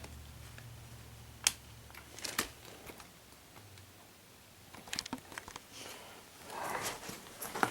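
Scattered sharp clicks and handling knocks as a mid-1980s Zenith VCR is plugged in and handled to apply power, over a faint low hum that fades about two and a half seconds in.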